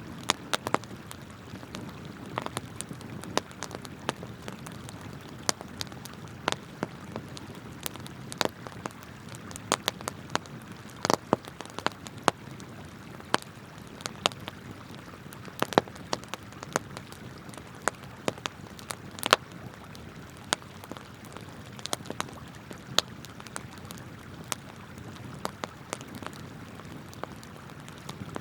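Wood campfire crackling and popping irregularly, several sharp snaps a second with a few louder pops, over the steady rush of flowing river water.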